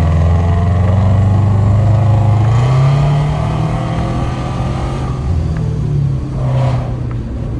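Subaru Forester's flat-four boxer engine pulling through UEL headers and an aftermarket full exhaust with a Kakimoto muffler. The exhaust note climbs slowly under acceleration for about three seconds, then falls and eases off as the throttle is lifted.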